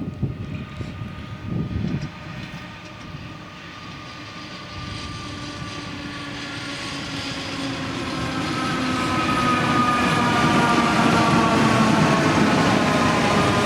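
Train approaching on the rails, its rumble growing steadily louder through the second half, with a few steady whining tones over it.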